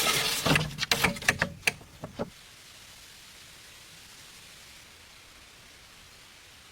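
A quick run of sharp knocks and clatter for about two seconds, then only a faint steady hiss.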